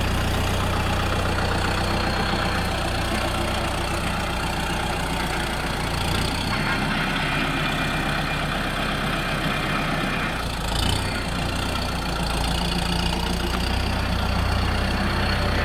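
Tractor engine running steadily at a low, even pitch, with a short change in the sound about eleven seconds in.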